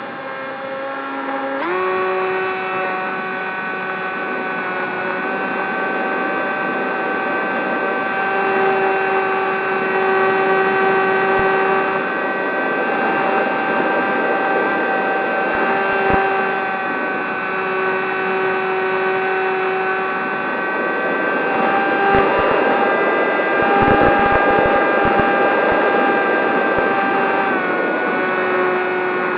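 Zohd Talon GT Rebel's electric motor and propeller running in flight, a steady whine. The pitch steps up about two seconds in and drops back near the end as the throttle is raised and then eased.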